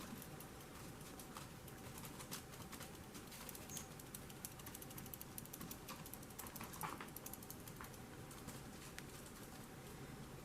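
Faint scattered clicks and light rustling from a cat toy being jiggled for a cat, with the ticks coming most thickly in the middle stretch.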